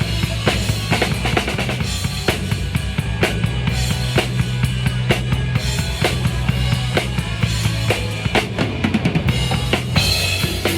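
Live band music with a drum kit to the fore: frequent kick and snare strokes in a driving rhythm over a sustained low bass line.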